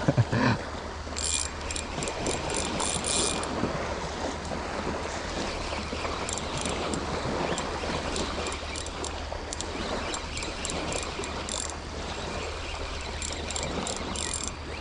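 Steady wash of light surf and wind on an open beach, with clusters of short high-pitched chirps repeating through it. A brief low thump comes right at the start.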